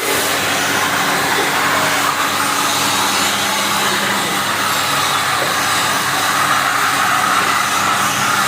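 Double-sided wood sanding machine running: a steady, loud noise with a low hum underneath.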